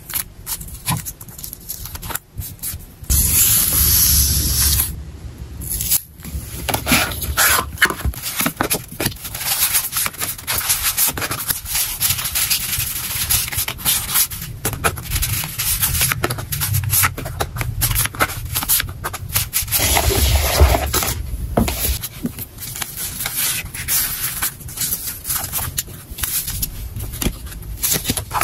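Hands handling packing materials close up: dense crinkling, rubbing and scraping, with a louder stretch of steady rustling a few seconds in.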